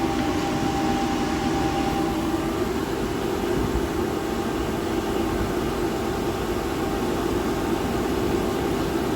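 Commercial plant-room boiler's forced-draught burner running steadily, a broad rush of fan and combustion air with a steady hum under it and a higher tone that fades out about two seconds in. The burner is working through its firing cycle normally.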